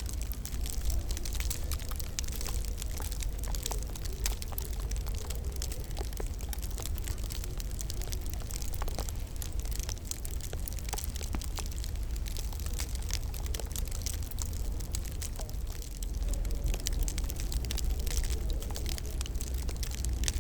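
Wood fire crackling in a fireplace: many small sharp pops and snaps, irregularly spaced, over a steady low rumble.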